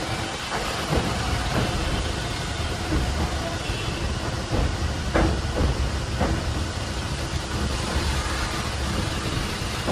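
Passenger train running: a steady rumble and rushing noise with a few sharp knocks and clanks, the loudest about five seconds in.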